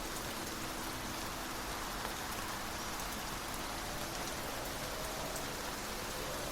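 Steady, even rain falling on a surface, a constant hiss with no single drops standing out, over a faint low steady hum.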